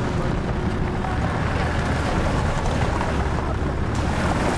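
Steady rumble of a vehicle driving slowly over a rough, unsealed lane, heard from inside the cabin: engine and tyre noise with faint knocks and rattles.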